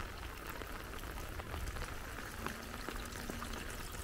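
Steady soft hiss of light rain and trickling water, with a few faint ticks.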